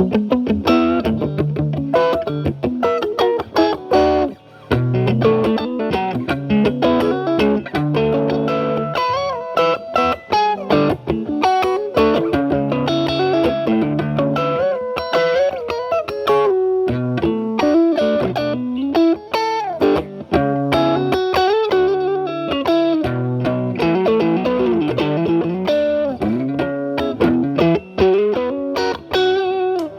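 Stratocaster with single-coil pickups played through a Paul Cochrane Timmy transparent overdrive pedal into a Marshall Valvestate amp's clean channel. The pedal is at full gain but cleaned up, giving a lightly overdriven tone on improvised single-note lines and chords.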